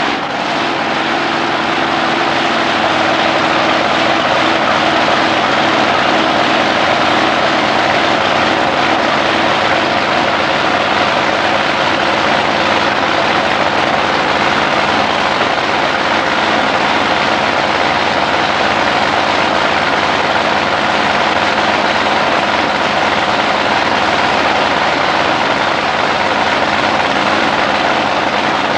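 Drag boat's racing engine running steadily in a warm-up, a loud, even note.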